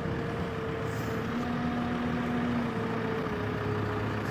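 Engine of a forked lifting machine running steadily, with a whine that holds one pitch and then steps to another several times.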